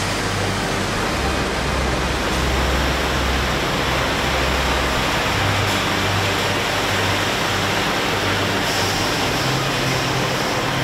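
Car wash tunnel equipment running: a steady rushing noise over a low motor hum that shifts in pitch a few times.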